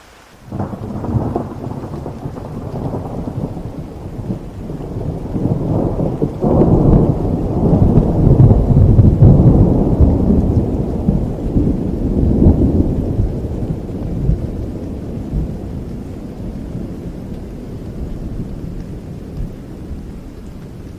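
Thunder rolling over steady rain: a sudden clap about half a second in, a second crack around six seconds, building to its loudest deep rumble near the middle, then slowly dying away into the rain.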